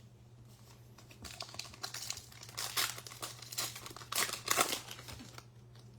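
Trading-card pack wrapper being torn open and crinkled, a run of crackling bursts lasting a few seconds and loudest about four seconds in. A steady low electrical hum lies underneath.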